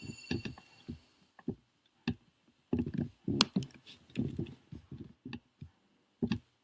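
A series of short, irregular clicks and taps.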